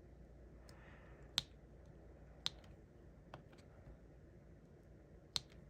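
Scattered sharp, light clicks of diamond painting: a drill pen tapping resin drills onto the sticky canvas, with four louder clicks at irregular intervals among fainter ones.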